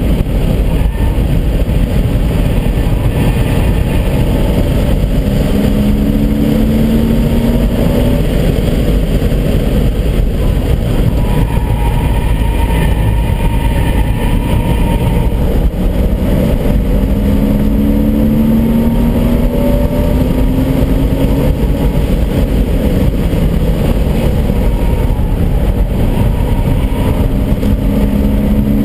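Porsche Boxster S's 3.2-litre flat-six driven hard on track, its note climbing in pitch through repeated pulls and dropping back between them, over a heavy steady rumble, heard from inside the cabin.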